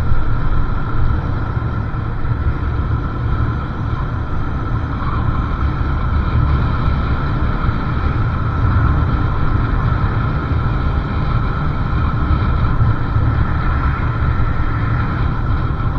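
Motorcycle riding along a road: steady engine and road noise with wind rumbling on the microphone.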